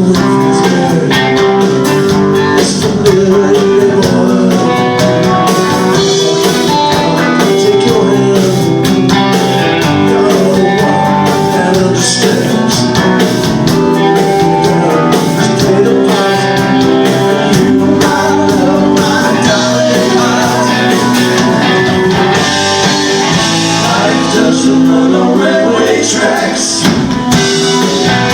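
Live rock band playing, with guitars, bass and drums, and a singing voice heard at times.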